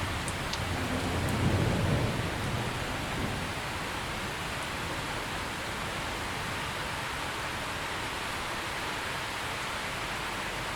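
Steady rain falling, with a low rumble of thunder that swells and fades about a second in.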